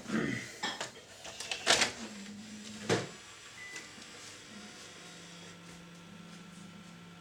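Panasonic NV-G7 VCR tape transport mechanism clicking and clunking through its loading and start-up, with a brief motor whir. It settles into a low steady hum for the second half.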